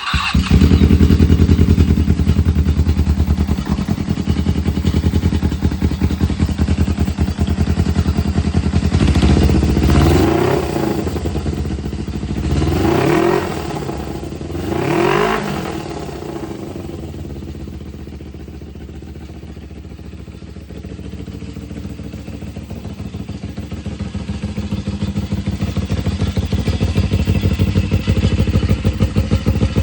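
Suzuki GSX250E air-cooled parallel-twin engine idling, revved up and let fall back three times in quick succession about nine to sixteen seconds in, then settling back to idle, quieter for a while before picking up again near the end. The run shows the engine in working order.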